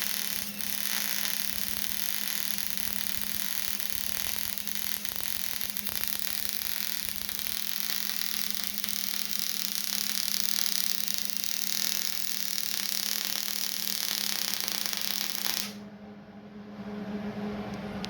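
Wire-feed welder laying a bead: a steady crackle and hiss over a low hum, cutting off abruptly about fifteen and a half seconds in.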